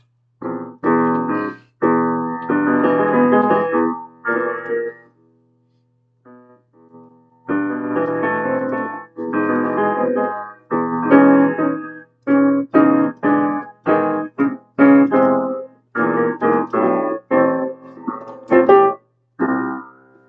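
Piano chords struck one after another with short breaks between them, a chord accompaniment in E-flat with a pause of about two seconds around five seconds in. A faint steady hum sits underneath.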